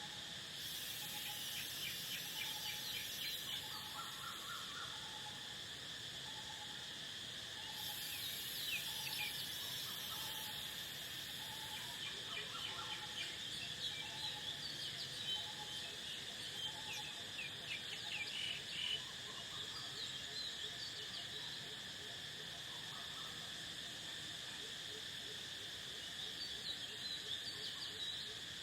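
Steady chorus of crickets and other insects, with birds chirping in short bursts. A soft low note repeats about twice a second for much of the time, and two stretches of high buzzing hiss come in during the first twelve seconds.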